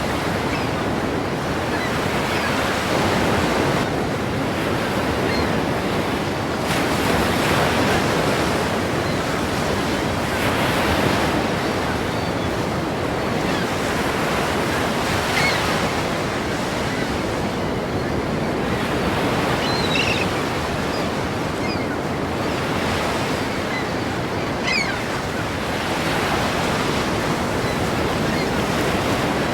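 Ocean surf breaking continuously against a pier, the wash swelling and easing every few seconds.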